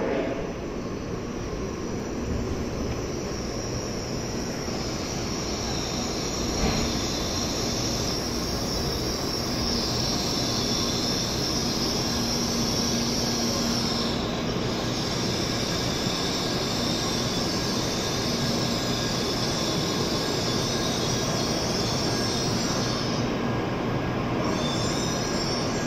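Steady whirring hiss of an N700S shinkansen standing at the platform, with a high-pitched whine in it that drops out briefly twice, about halfway through and again near the end.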